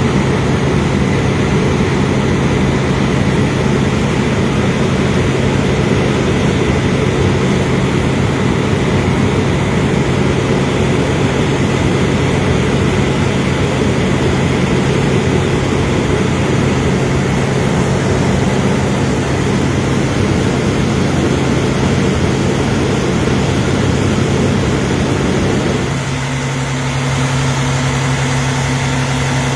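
Large vehicle engine idling steadily close by: a constant low hum under a rough rumble. About 26 seconds in the rumble drops away, leaving the steady hum.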